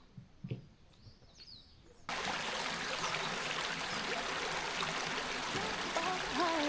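A few faint bird chirps and soft knocks, then an abrupt cut about two seconds in to the steady rush of a flowing mountain stream. Music begins faintly near the end.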